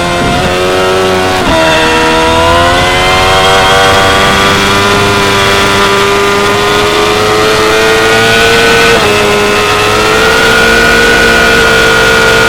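2016 Yamaha R6's 599 cc inline-four engine pulling at high revs, its pitch climbing steadily through the gears with upshifts that drop the revs about a second and a half in and again near the nine-second mark, then holding nearly steady near the end.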